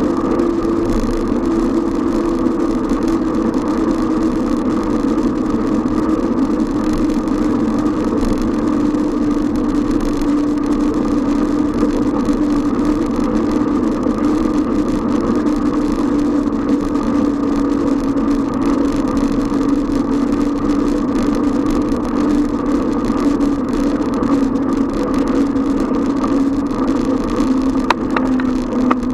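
A steady, loud mechanical hum whose pitch slowly falls across the stretch, over a noisy rushing background.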